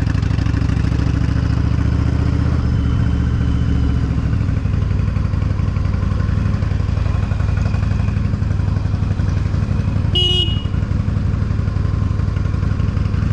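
Motorcycle engine running steadily under way, heard from the bike. A single short horn beep about ten seconds in.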